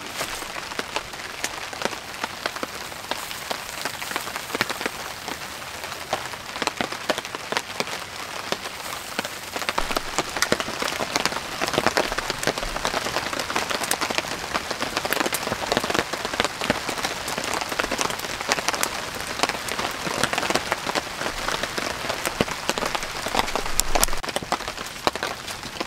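Steady rain falling on a tarp shelter, with many sharp individual drop hits over an even hiss.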